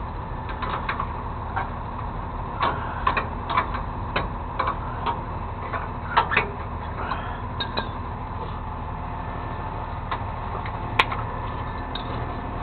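Loose metal clinking and clanking, a couple of dozen sharp knocks, loudest about six seconds in and again near eleven seconds, typical of tow-hookup hardware being handled. Under it an engine idles steadily.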